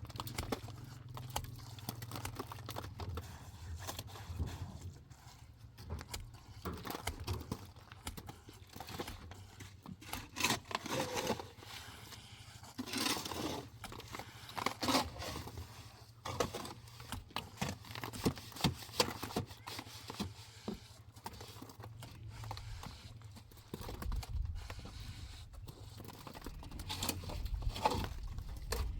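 Irregular scraping and knocking from hand work on the building, over a low steady hum that swells near the end.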